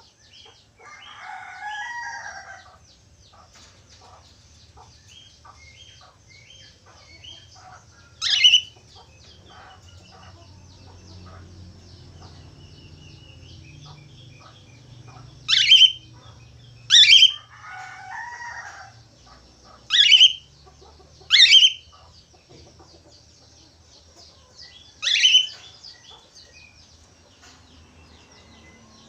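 Budgerigars chattering with a steady fine high twitter, broken by about six loud, short calls that sweep sharply downward in pitch.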